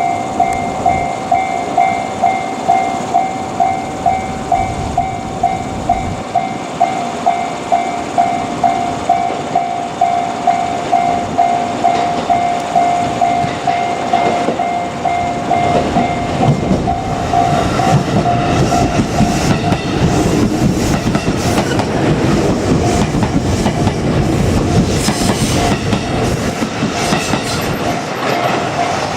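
Railway level-crossing warning bell ringing in a steady pulse of about two strokes a second. About halfway through, a JR Kyushu 787-series limited express electric train runs past with a rising rumble and rapid wheel clatter over the rail joints that drowns out the bell. The bell is heard clearly again near the end.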